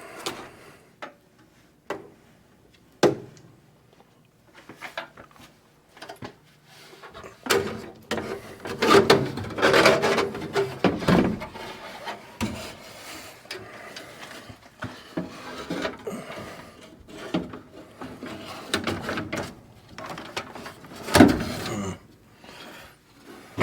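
Blower assembly being slid back into an electric furnace cabinet: sheet metal scraping, rubbing and knocking in irregular bursts. There is a sharp knock about three seconds in and a heavy clunk near the end.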